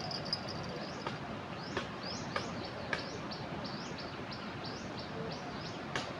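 Steady rush of a flooded river, with a bird calling over it in a quick series of short rising chirps, about two a second. A few sharp clicks sound among them.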